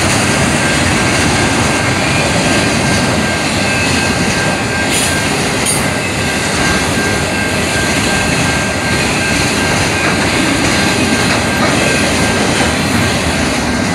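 Freight train of autorack cars rolling past at a level crossing: a loud, steady rumble and rattle of wheels on rail, with a thin steady high tone running through it.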